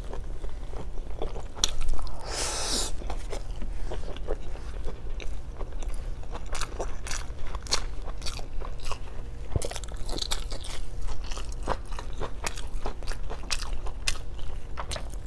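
Close-miked chewing of adobo pork belly and rice eaten by hand: a run of wet mouth clicks and smacks, with a short rushing noise about two seconds in.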